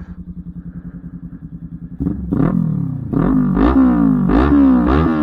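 Kawasaki Ninja 400 parallel-twin with a LeoVince aftermarket exhaust idling steadily. About two seconds in, louder outro music with distorted guitar comes in over it, in repeated falling sweeps.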